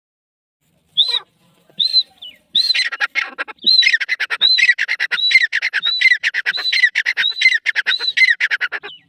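Grey francolin (teetar) calling. A few single notes about a second in build into a fast, harsh series of repeated phrases, each with a high ringing note that hooks downward, about one phrase every three-quarters of a second. The calling stops just before the end.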